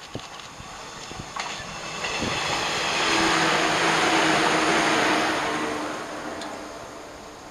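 Shinano Railway 115 series electric train passing close by. The rush of its wheels and running gear builds over about three seconds, holds for about two, then fades as the train goes by, with a steady hum under the noise at its loudest.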